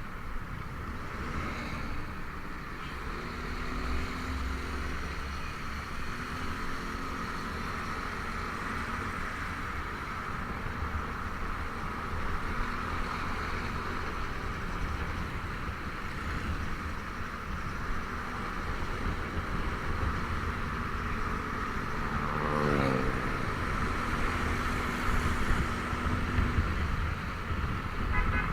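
Honda Vario 125 scooter's single-cylinder engine running on the move, under steady road and air noise. About 22 seconds in, a tone drops quickly in pitch.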